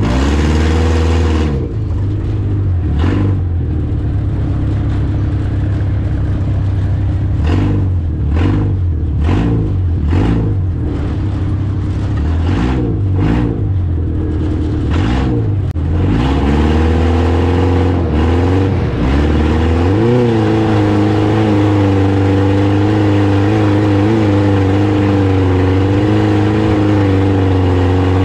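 Demolition derby car's engine heard close up, revved in repeated short blips, then held at steady high revs from about halfway through with brief rises and falls.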